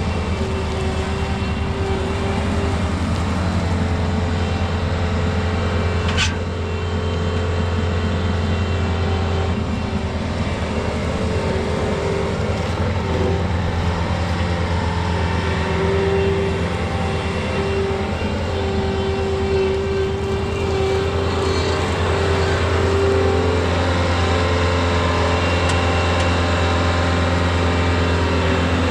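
Tractor engine running steadily with a low hum and a steady whine, and one sharp click about six seconds in.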